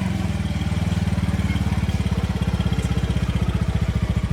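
TVS Apache motorcycle's single-cylinder engine idling with a steady, rapid beat.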